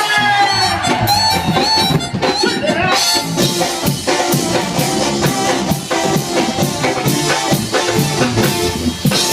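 Regional Mexican band playing the instrumental intro of a song with a reedy melodic lead, guitar and drum kit; the steady drum beat comes in about three seconds in.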